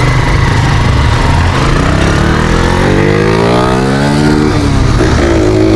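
Motorcycle pulling away hard, its engine note climbing, dropping at a gear change about four and a half seconds in, then climbing again, over a low rumble.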